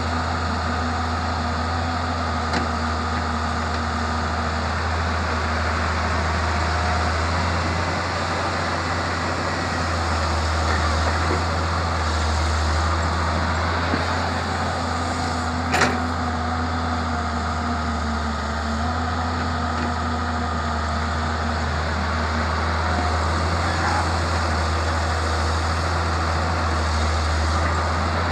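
Samsung excavator's diesel engine running steadily with a deep low drone as it works, with a single sharp clank about halfway through.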